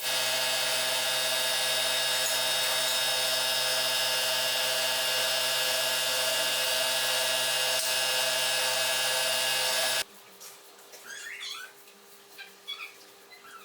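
Power tool running at a steady speed with a constant whine. It cuts off abruptly about ten seconds in, leaving faint short chirps.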